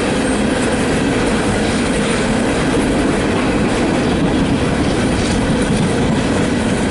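CSX freight train cars rolling past close by: loud, steady noise of steel wheels on rail.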